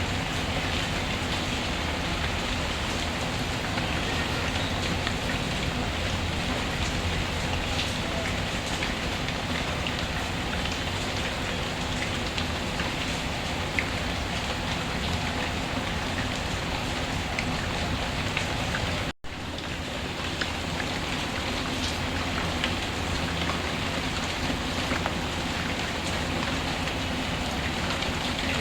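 Steady rainfall with the occasional small crackle of a wood fire. About two-thirds of the way through, the sound cuts out for a split second and then carries on.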